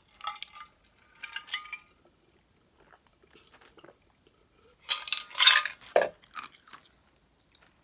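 Someone eating Takis rolled tortilla chips: a few short crunches and clattering handling noises, with a louder cluster of sharp clinks and crunches about five seconds in.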